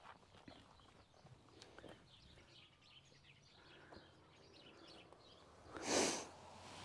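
Small birds chirping faintly, with a short loud rush of noise about six seconds in.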